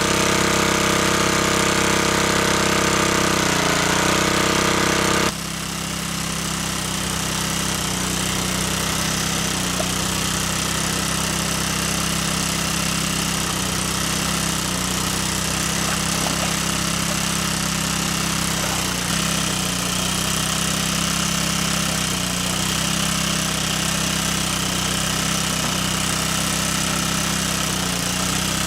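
A motor running steadily with a low drone, its sound changing abruptly about five seconds in.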